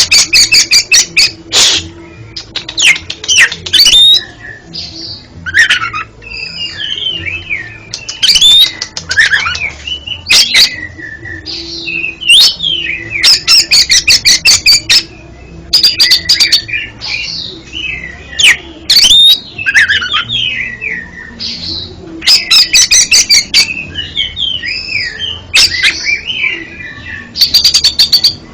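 Oriental magpie-robin (kacer) singing loudly and continuously: varied whistled phrases with rising and falling glides, broken up by fast rattling chatters.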